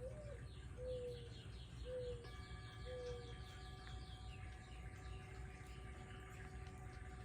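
Birds calling: four short low whistled notes about a second apart, over a quicker series of high, falling chirps. A steady held tone comes in about two seconds in and continues.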